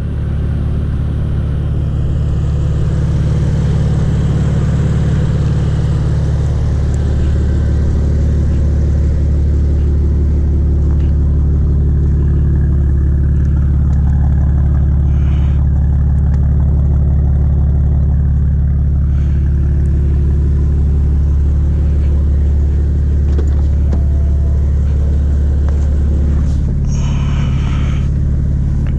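BMW M4's twin-turbo inline-six, breathing through an Akrapovic full exhaust system, idling with a steady low rumble while it warms up.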